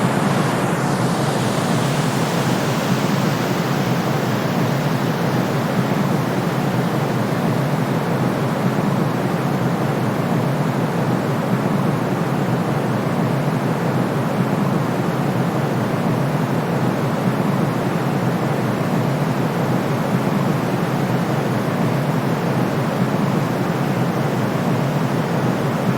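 Continuous white noise for sleep: an even, unbroken rush that holds the same level throughout and leans toward the lower, deeper range.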